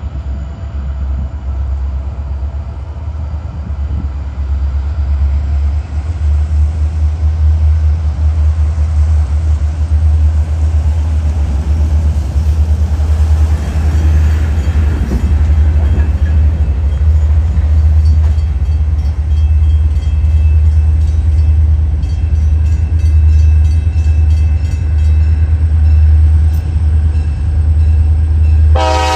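A diesel train running with a heavy, steady low rumble that grows louder about six seconds in. Right at the end a locomotive horn starts to sound.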